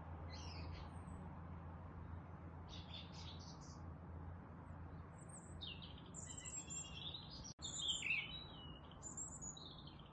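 Small songbirds chirping and twittering: a few scattered short calls at first, then busier overlapping chirps in the second half, over a steady low hum. The sound cuts out for an instant about three quarters of the way through.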